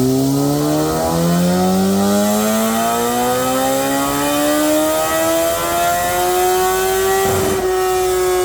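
A 2003 Kawasaki ZX-12R's inline-four, breathing through a Muzzy exhaust, is held at full throttle on a dyno. The revs climb steadily for about seven seconds. Near the end there is a brief break, then the pitch holds and slowly eases down.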